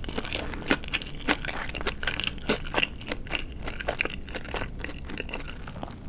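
Mouth chewing crispy deep-fried marinated chicken (tatsuta-age), a quick, irregular run of small crunches and wet clicks.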